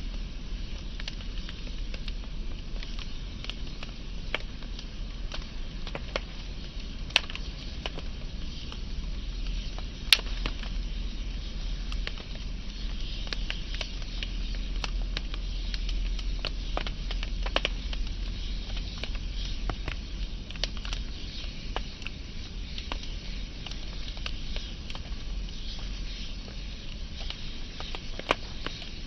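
Wood fire burning, with a steady low rumble of flames and frequent sharp crackles and pops, the loudest pops about seven and ten seconds in.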